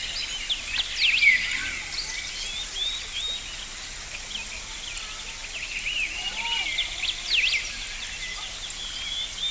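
Many birds chirping and calling in quick, overlapping short notes over a steady high hiss.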